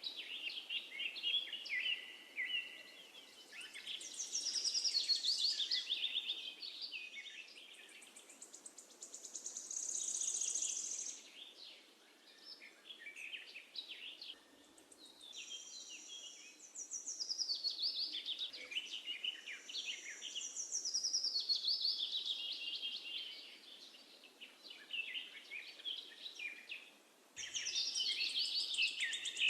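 Several songbirds singing together in quick chirps and trills, phrase after phrase, over a faint steady background hiss. The song cuts out briefly near the end and then starts again.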